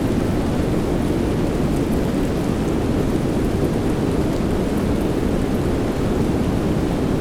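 Steady soft rain sound, heavy in the low end, with faint scattered drop ticks over a constant deep hiss.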